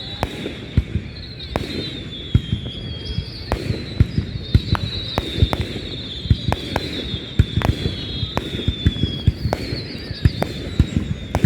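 Fireworks going off: a rapid, irregular run of bangs and cracks over a low rumble, with a high wavering whistle drifting slowly downward above them.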